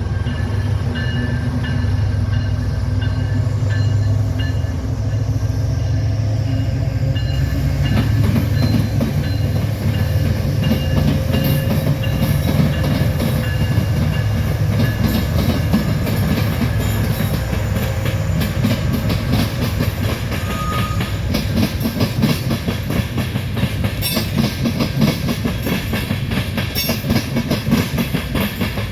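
Canadian National freight train of tank cars rolling past, a steady heavy rumble with the wheels clacking over the rail joints. The clatter grows denser and sharper from about a third of the way in.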